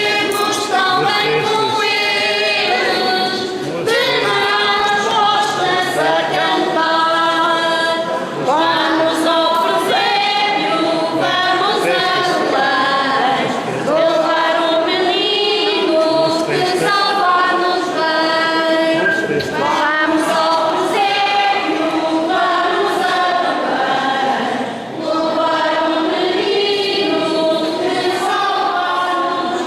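Church choir singing a hymn, several voices together in a sustained, continuous line.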